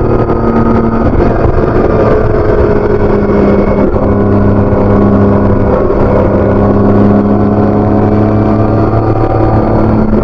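BMW K1600B's inline-six engine running through its stock exhaust while riding at steady cruising revs. The engine note dips slightly about a second in, holds steady, and rises a little again near the end.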